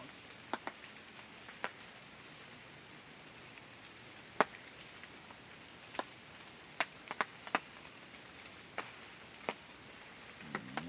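Steady rain hiss, with single heavy drops striking sharply and irregularly, about a dozen in all, the loudest about four and a half seconds in.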